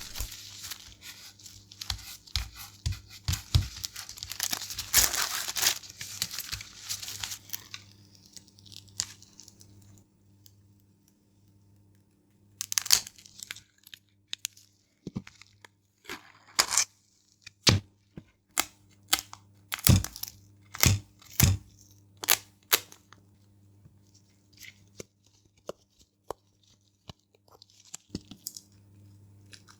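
Adhesive backing being peeled away in a long rustling tear, followed by scattered small clicks and taps of small plastic parts being handled.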